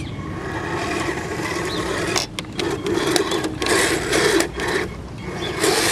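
Electric motors and gearing of a Kyosho Blizzard SR radio-controlled snow groomer whirring as it is worked. The whirr swells and eases several times, louder from about two seconds in and again near the end.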